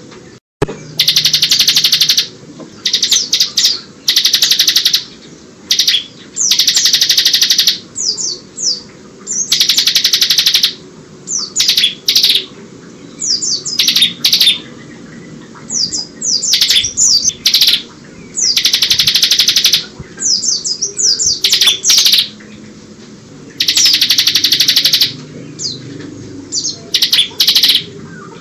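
Bar-winged prinia (ciblek) singing continuously: loud rattling trills of about a second each, repeated every few seconds, with quick falling chirps between them, its song filled in with phrases of the Oriental white-eye (pleci). A sharp click comes just before the first trill.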